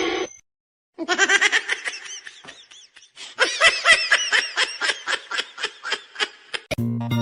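Rapid, high-pitched laughter, a long string of short giggling bursts several times a second. Keyboard music comes in near the end.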